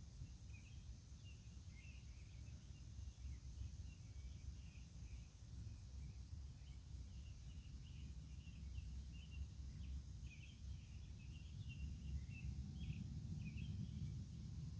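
Faint night-time outdoor ambience: scattered short bird chirps over a steady, high insect drone, with a low rumble underneath that grows slightly louder in the second half.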